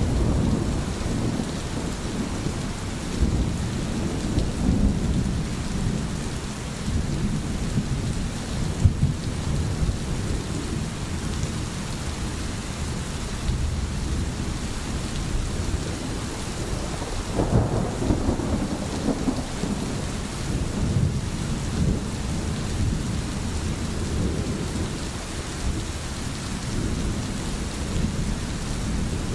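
Steady rain falling, with a low rumble underneath that swells about halfway through.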